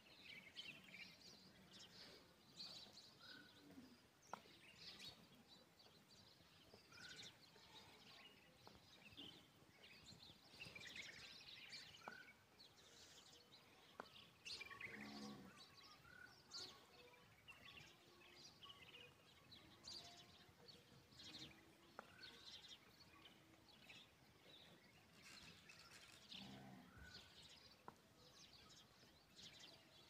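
Faint chirping of birds: many short, high chirps scattered over a quiet outdoor background.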